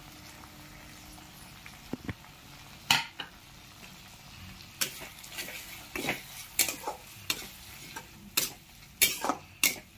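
Chopped tomatoes frying with a steady sizzle in oil and onion masala in a kadai. From about three seconds in, a spatula scrapes and knocks against the pan in stirring strokes that come more often toward the end.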